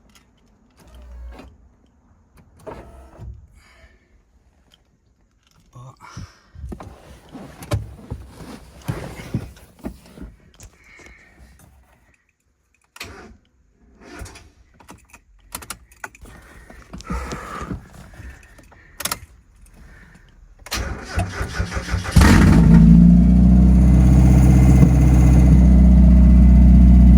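Scattered clicks and knocks, then about 21 seconds in the starter cranks briefly and the replacement Mazda BP 1.8-litre four-cylinder engine in a Mk1 MX5 catches and runs steadily and loudly: its first start after the swap.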